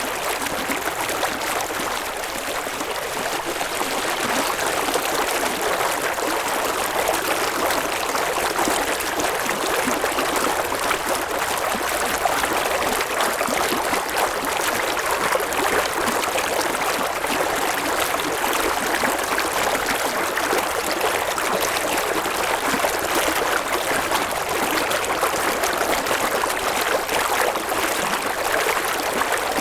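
River water flowing and babbling over stones, a steady rushing sound with no change in level.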